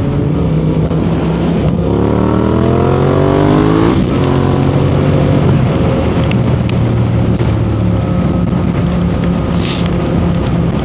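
Sport bike's inline-four engine under way; about two seconds in it revs up, rising in pitch, then drops sharply at a gear change and settles into a steady cruise.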